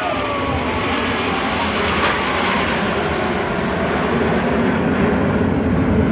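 Jet aircraft flying past with a loud, steady engine noise that grows a little louder near the end.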